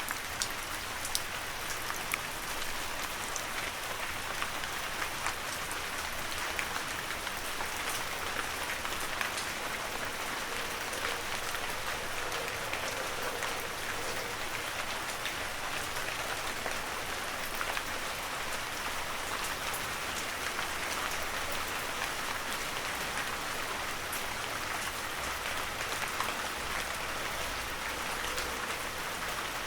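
Heavy rain falling steadily, a dense even hiss with many scattered drop ticks.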